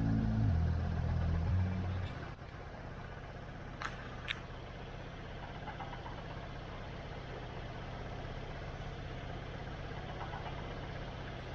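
Music ends about two seconds in, giving way to a motorcycle engine idling steadily, with two short clicks a little later.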